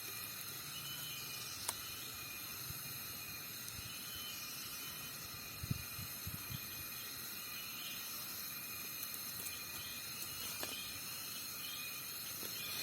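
Steady, high-pitched chorus of cicadas, with a few faint clicks and soft knocks.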